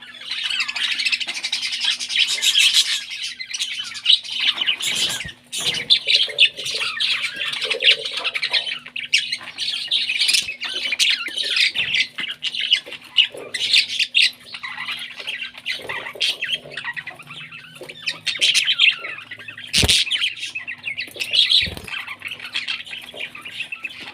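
Parrot chicks giving rapid, almost unbroken squawking begging calls, the sound of young parrots being fed. A couple of sharp knocks come near the end, and a faint steady hum runs underneath.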